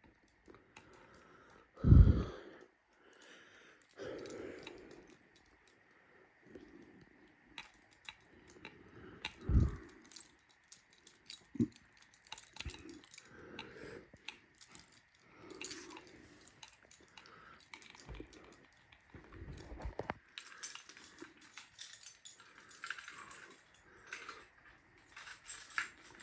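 Scattered faint knocks, clicks and rustles of movement in a small room, with a louder thump about two seconds in and another near ten seconds; a faint steady high tone hums underneath.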